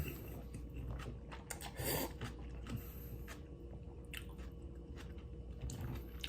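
Close-up mouth sounds of a person eating noodle soup: soft chewing and slurping, with scattered small clicks and one brief louder burst about two seconds in.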